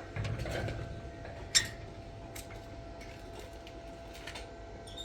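Scattered light clicks and clinks of objects being handled, with one sharper click about a second and a half in, over a faint steady tone.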